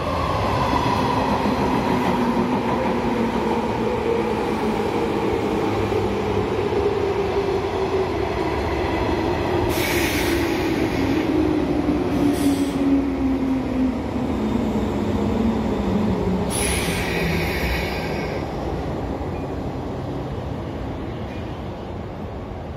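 A JNR 185 series electric limited express train pulling into a platform and braking to a stop. Its running whine falls steadily in pitch as it slows. Short high squeals come about ten seconds in, again a couple of seconds later, and once more near the end of the braking, and the sound eases as the train comes to rest.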